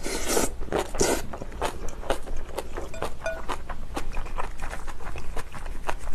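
Two short spluttering bursts through a full mouth of spicy cabbage kimchi and rice, near the start and about a second in, then close-miked crunchy chewing with many quick sharp clicks.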